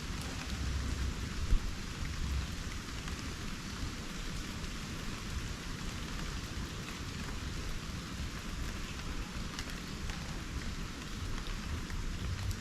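Steady rain falling on rainforest foliage, an even hiss with a low rumble underneath and one sharp tap about a second and a half in.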